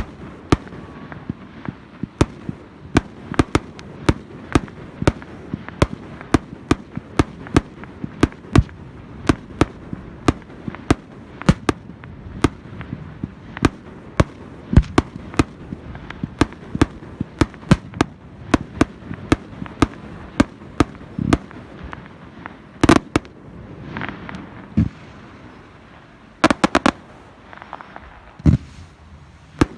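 Fireworks going off in a rapid string of sharp bangs, about two to three a second, thinning after about twenty-two seconds into a few louder, scattered bangs and short clusters.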